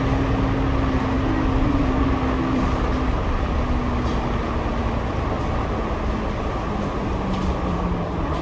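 Double-decker bus running, heard from inside on the upper deck: steady engine and road rumble with a low whine that drifts slightly lower in pitch.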